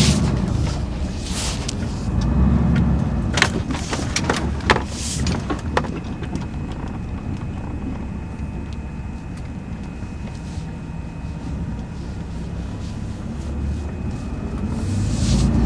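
A vehicle running with a steady low rumble that swells now and then. A cluster of sharp clicks and knocks comes a few seconds in.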